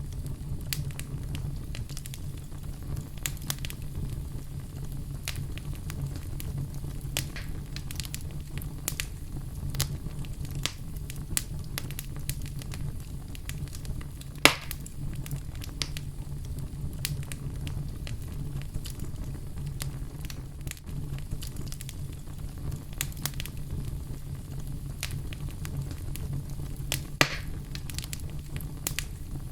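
Wood fire burning in a fireplace: a steady low rumble of flames with irregular crackles and pops. Two louder pops stand out, about halfway through and near the end.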